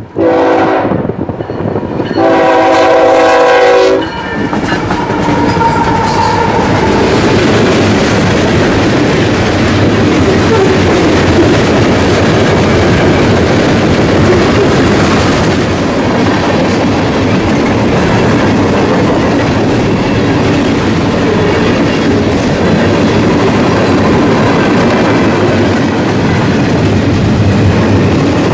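Freight locomotive's air horn sounding twice, a short blast and then a longer one, each several tones together. The train then passes, with a loud steady rumble of wheels on rail to the end.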